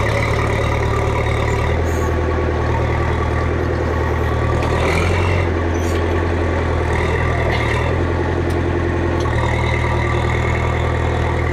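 Cat 416D backhoe loader's diesel engine running steadily, its pitch shifting slightly about five seconds in and again near the end.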